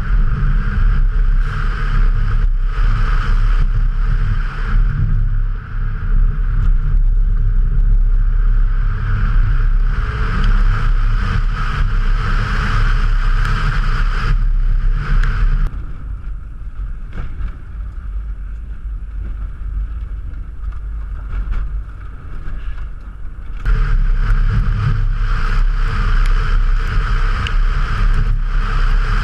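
Subaru Impreza turbo's engine under hard acceleration, heard from inside the car with road noise, pulling hard through the gears. For about eight seconds in the middle it goes quieter as the car comes off the throttle and slows, then it rises to full power again.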